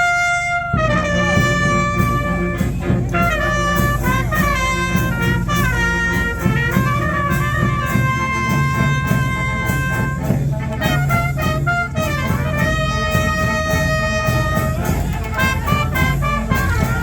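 Youth fanfare band of brass and drums playing. A single held brass note sounds first, then about a second in the full band comes in with drums and a moving brass melody.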